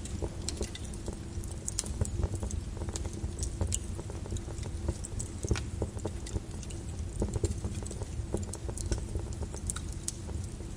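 Flowing lava with its cooling crust crackling and clinking in irregular sharp ticks over a steady low rumble.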